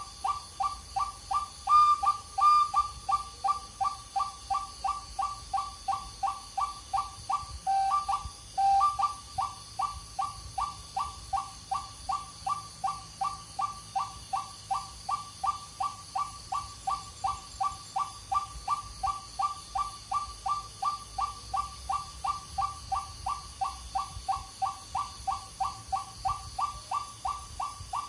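White-breasted waterhen (ruak-ruak) call: a fast, very regular run of short rising whistled notes, about three a second. It breaks briefly for a louder note about eight seconds in.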